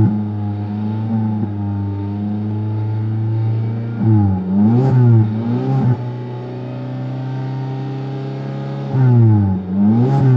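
2013 Kia Cerato's 1.8-litre four-cylinder petrol engine being revved in park. It is held at a steady raised speed, with quick blips rising and falling about four to six seconds in and again near the end.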